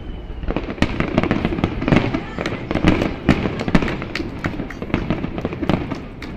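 Finale barrage of aerial fireworks: many sharp bangs and crackles in rapid, overlapping succession over a low rumble, growing dense about half a second in.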